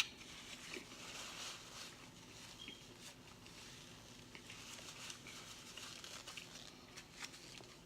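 Faint crinkling and scattered small clicks from food being handled and eaten.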